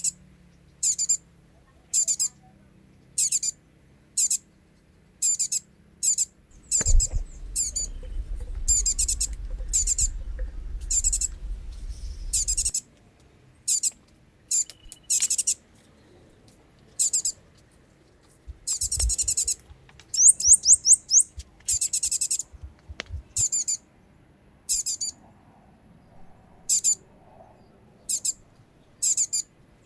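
Short, high-pitched chirping calls from a small animal, each a rapid trill, repeating about once a second. A low rumble runs underneath for several seconds near the middle.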